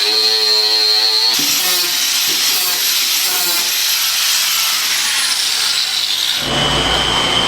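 Power tools running in metalwork. A steady whine cuts off abruptly about a second and a half in, giving way to a hissing, grinding noise, which changes again to a deeper, rougher noise with a steady high tone near the end.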